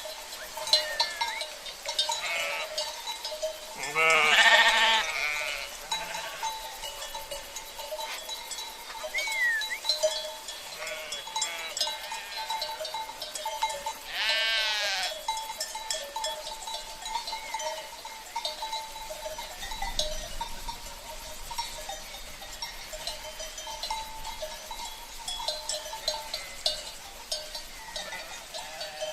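A flock of sheep with bells (cencerros) clinking and ringing all through. Two loud bleats, one about four seconds in and one about fourteen seconds in, and a short rising chirp near nine seconds.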